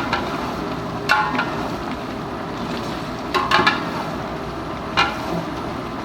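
Chicken gizzards being stir-fried (bhuna) in a metal cooking pot. A metal ladle clanks and scrapes against the pot three times over a steady frying hiss, while the gizzards are fried down until their water dries off.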